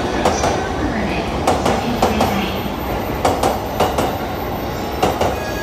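JR East E657-series limited express train rolling past along the platform, its wheels clacking over the rail joints in a run of uneven sharp clicks over a steady low rumble.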